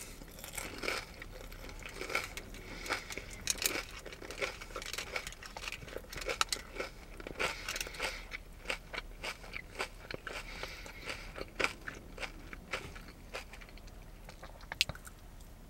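A person biting and chewing crispy fried food close to the microphone, with many irregular crisp crunches.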